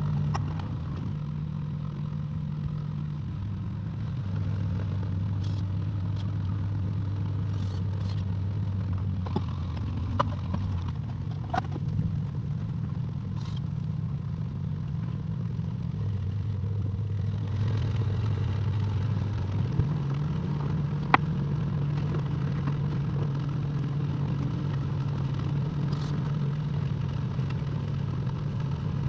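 Excavator diesel engine running steadily, its pitch dropping a few seconds in and rising again about two-thirds of the way through as the engine speed changes, with a few sharp metal clanks near the middle.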